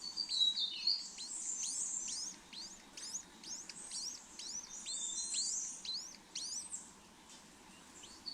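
Small birds chirping: a rapid series of short, high, falling chirps, about three a second, with bursts of buzzier high chatter in places.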